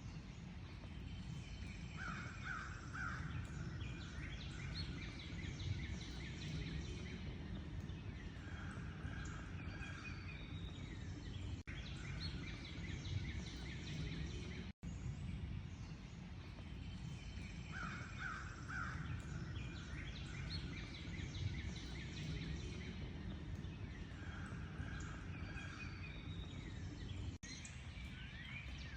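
A chorus of wild birds: many birds chirping and trilling at once, with bursts of short, harsh, stuttering calls coming back every several seconds, over a steady low rumble. The sound drops out for an instant three times.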